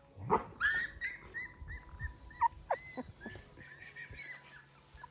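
Puppies whimpering in many short, high cries, several a second.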